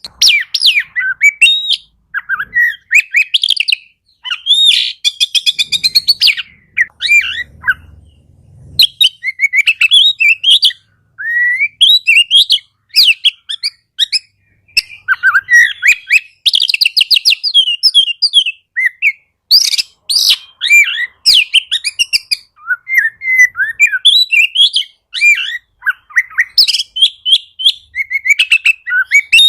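Oriental magpie-robin (kacer) singing continuously in rapid, varied phrases of sweet whistles, slurred glides and chirps, broken by a couple of short buzzy rattles.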